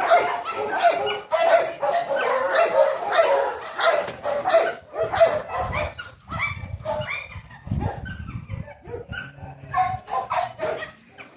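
A dog whining and yipping in a rapid string of high calls, thinning to scattered calls in the second half, with some low rumbling noise in the middle.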